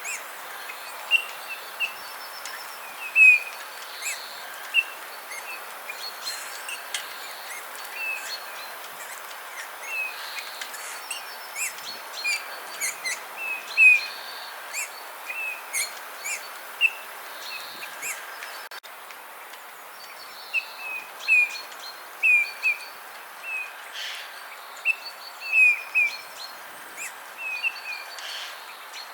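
Small birds chirping: short, high calls repeated many times with a brief lull about two-thirds of the way through, over a steady background hiss.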